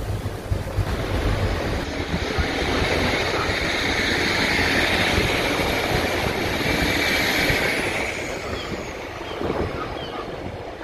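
Class 150 Sprinter diesel multiple unit running close past along the platform, its diesel engines and wheels on the rails making a steady noise. The noise builds about two seconds in and eases after about eight seconds as the unit moves on.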